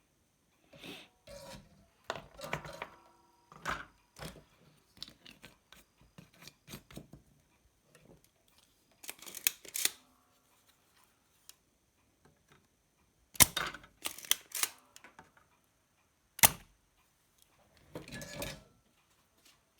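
Irregular clicks, taps and rustling of hand tools and a car stereo circuit board being handled on a workbench while an electrolytic capacitor is replaced, with several sharp snaps in the second half.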